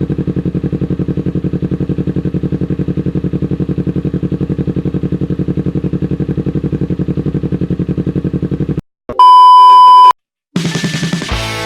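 Kawasaki Ninja 250 FI's parallel-twin engine idling steadily with an even, rapid exhaust pulse. It cuts off suddenly about nine seconds in and is followed by a loud, steady beep tone lasting about a second. Music starts near the end.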